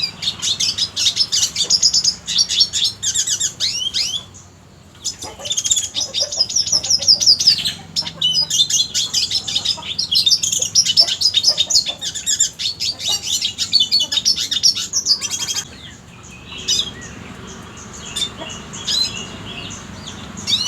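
Red siskin singing: a long, rapid twittering song of chirps and quick trills. It breaks off briefly about four seconds in, then goes on, thinning to scattered notes over the last few seconds.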